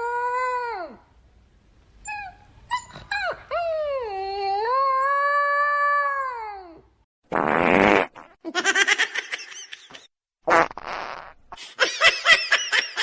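A pet's long wavering howls, two of them, followed from about halfway by a run of raspy, rapidly pulsing sounds.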